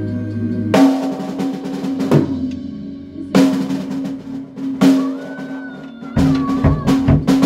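Band rehearsing: sustained chords from bass and guitar punctuated by crashing cymbal-and-drum accents, the drum kit breaking into a busy, rapid beat about six seconds in.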